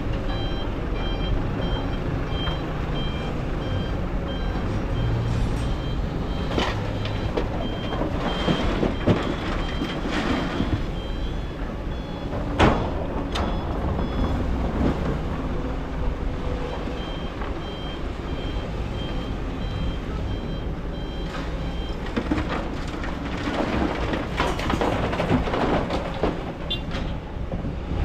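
Kobelco excavator working in sand: its diesel engine runs steadily while a back-up alarm beeps about twice a second, stopping after several seconds and coming back midway. Scattered sharp clanks and scrapes come through, the loudest about halfway.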